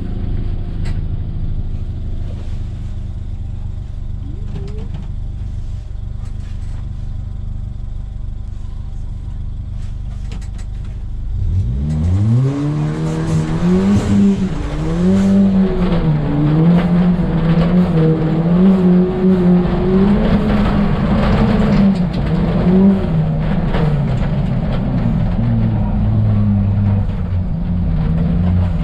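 Ford Fiesta ST rally car engine idling steadily. About twelve seconds in it launches, revving sharply up, then keeps running hard with the revs rising and falling as the throttle is worked around the rallycross course.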